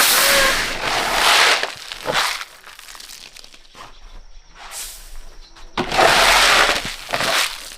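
Dry rustling and crunching in several bursts, as dry corn is handled: a long burst at the start, short ones about two and five seconds in, and another long one about six seconds in.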